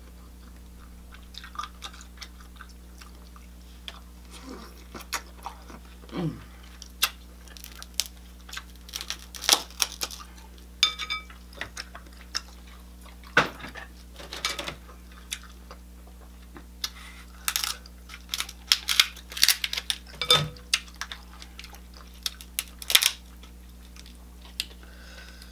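Close-miked eating sounds: chewing and lip-smacking on king crab and shrimp, with irregular sharp clicks and crunches as shell is peeled by hand. A faint steady hum runs underneath.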